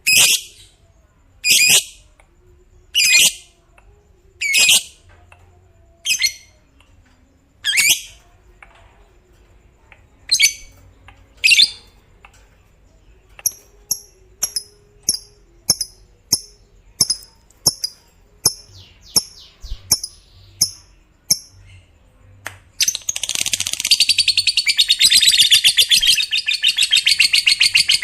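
Lovebird calling: loud shrill single calls about every second and a half, then quicker, shorter chirps, then about 23 seconds in it breaks into a long, dense, rapid chattering trill, the long 'ngekek' of a fighter-type lovebird.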